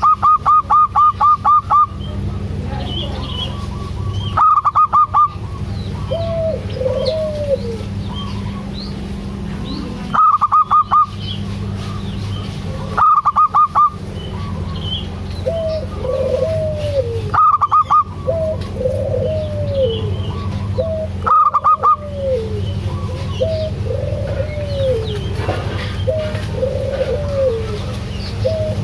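Zebra dove (perkutut) song: loud bursts of rapid, evenly spaced staccato notes recurring every three to four seconds, with softer rising-and-falling coos between them. A steady low hum runs underneath.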